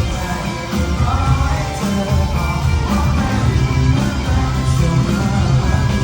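Live Thai indie rock band playing a song, with a lead voice singing over guitar, bass and drums.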